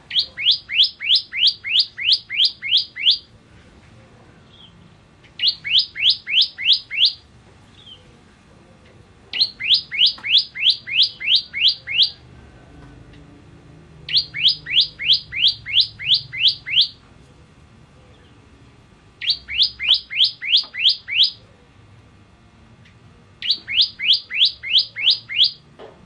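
Bar-winged prinia (ciblek) singing: six bursts of rapid repeated high notes, each note sliding down in pitch, about three notes a second, with pauses of one to two seconds between bursts.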